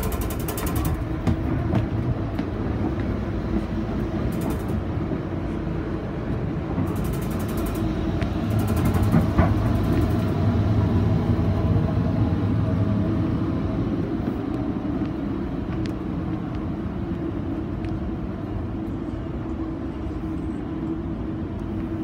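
Steady rumble and hum inside a bilevel commuter rail coach running along the track, swelling a little about eight seconds in and easing off after twelve.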